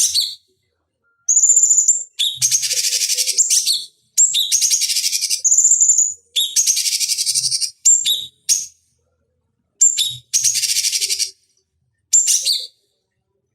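Cucak cungkok songbird calling in repeated fast, scratchy chattering phrases. Each phrase lasts about a second and often opens with a short clear high note. There are seven phrases, split by brief gaps of full silence.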